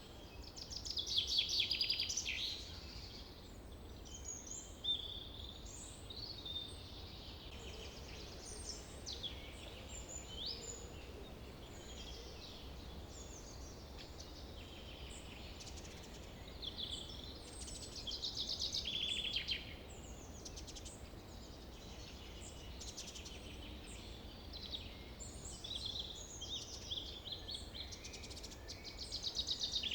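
Several small songbirds chirping and trilling, many short high calls overlapping, with louder bursts of rapid trilling near the start, in the middle and at the end, over a low steady background hum.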